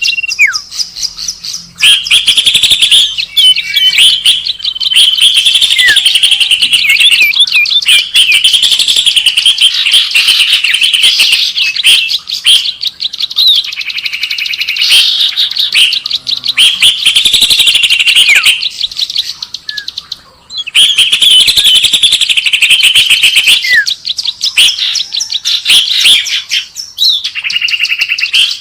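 Bird-lure recording: a loud, dense chatter of many small birds chirping and trilling rapidly, overlapping with hardly a gap, dropping out briefly once past the middle.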